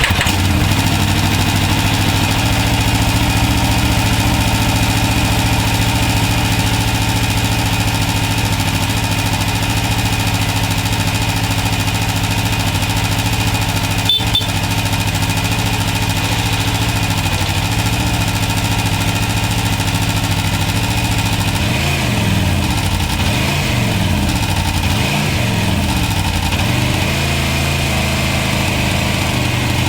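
Aprilia RSV4 motorcycle's V4 engine idling just after a cold start, with a steady stock-exhaust note. About two-thirds of the way through, the engine pitch wavers up and down several times.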